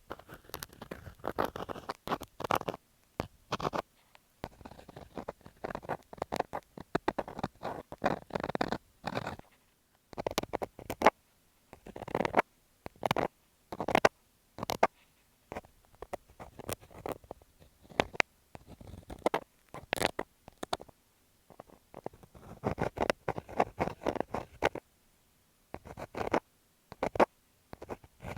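An ear scaler scraping and scratching close against an earphone microphone, as ear-cleaning ASMR. It comes in irregular clusters of rustling scrapes and sharp clicks, with brief pauses between them.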